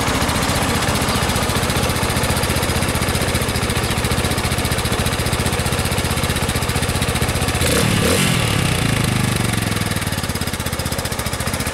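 Viper V250L's 250 cc four-stroke overhead-cam Zongshen engine idling steadily with a soft, bassy exhaust. About eight seconds in it is given a brief blip of throttle, and the revs fall back to idle over the next couple of seconds.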